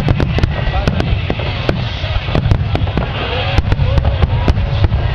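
Fireworks going off in rapid, irregular succession: many sharp bangs and crackles over a steady low rumble of bursts.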